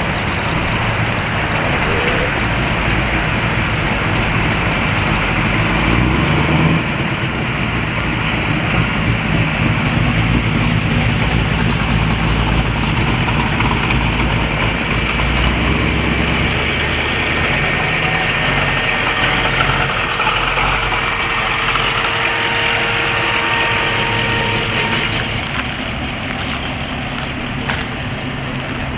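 Car engines idling and running at low speed, steady throughout, growing somewhat quieter near the end.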